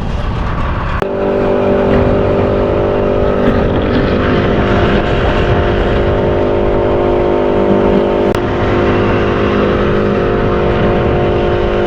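A motor runs at a steady speed, starting about a second in, over a continuous rush of wind noise.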